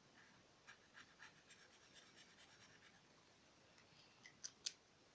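Faint scratching of a felt-tip marker colouring in on paper, in short repeated strokes, with a couple of sharper clicks near the end.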